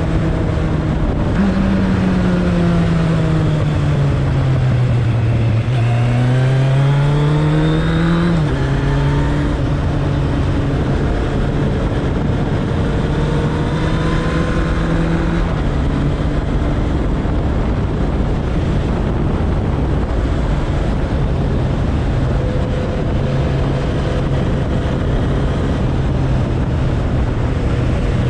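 Suzuki Bandit 1200's inline-four engine running under way, with heavy wind rush. The revs jump up about a second in, sag for a few seconds, climb again, then drop sharply at an upshift about eight seconds in. After that they hold nearly steady at cruising speed, with a slight drop around the middle.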